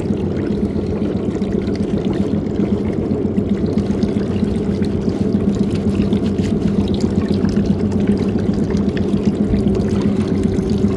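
Washing machine running with shoes inside: water churning and splashing steadily over a constant motor hum.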